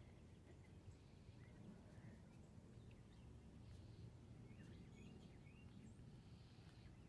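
Near silence: quiet outdoor ambience with a few faint, scattered bird chirps, including a short run of them about two-thirds of the way through.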